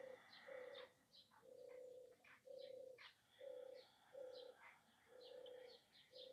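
Faint outdoor birdsong: a dove cooing in a series of low, flat notes of uneven length, about one a second, with small birds chirping and tweeting higher up.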